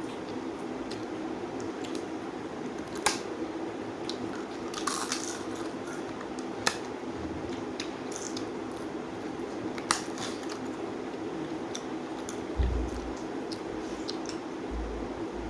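A person eating: quiet chewing and mouth sounds with a few sharp clicks and a brief crunch, over a steady low hum. Two low thumps near the end.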